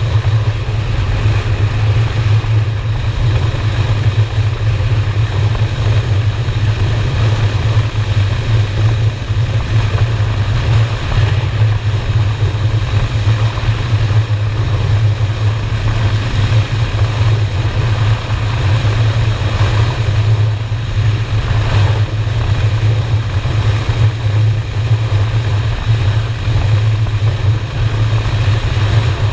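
Honda Shadow V-twin motorcycle engine running steadily while riding, a constant low drone with no revving or gear changes, under an even rush of wind noise.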